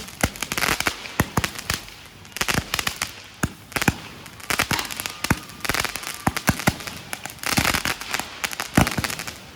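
Z121 firework cake firing: a rapid, irregular series of sharp bangs from bursting shells, several a second, with stretches of hiss between them.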